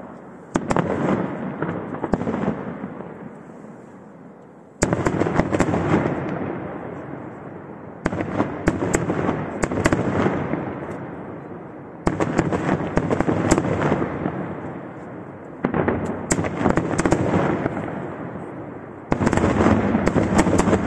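Aerial firework shells bursting one after another: six sharp reports about three to four seconds apart, each followed by a dense crackle that fades away.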